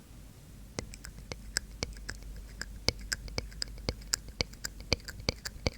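Close-miked ASMR mouth sounds: wet tongue-and-lip clicks, irregular, about four a second, starting about a second in.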